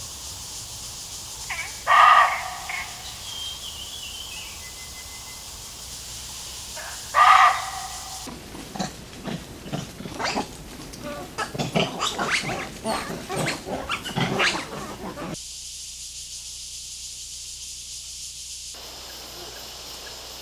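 Wild animal calls in a forest: a loud single call about 2 seconds in and another about 7 seconds in. From about 8 to 15 seconds a dense run of rapid, irregular animal calls follows, and after that a steady high insect hiss.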